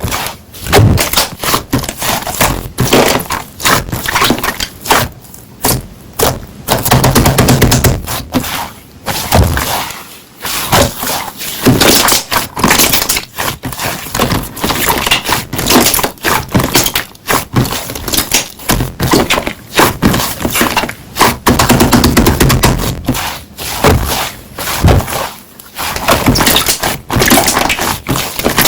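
Hands squeezing and pressing slime, making dense runs of crackling, popping clicks with short pauses between.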